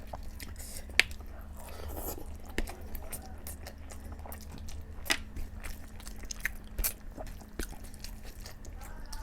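Close-miked chewing and biting of boiled eggs and chicken curry, with wet mouth sounds and scattered sharp clicks, the loudest about a second in, over a steady low hum.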